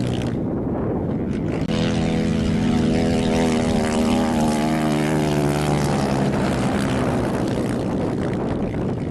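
Off-road rally racing engine running hard: a strong, steady engine drone from about two seconds in that fades after about six seconds.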